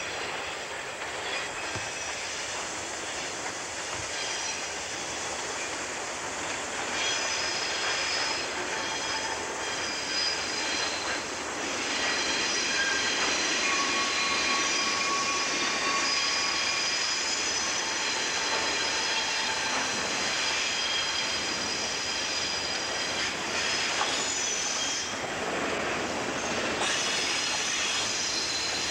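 Diesel switcher locomotives hauling boxcars around a curve, wheel flanges squealing in several steady high tones over the running rumble of the train. It grows louder as the train approaches, with the squeal strongest from about a third of the way in.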